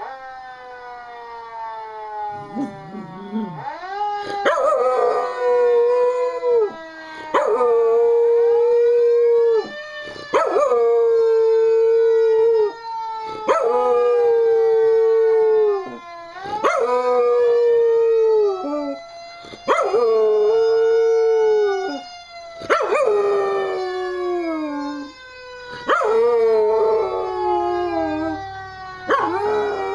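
A dog howling along with a fire engine siren played from a computer. The siren wails from the start, and the dog joins about four seconds in with about eight long, loud howls of two to three seconds each, pausing briefly between them.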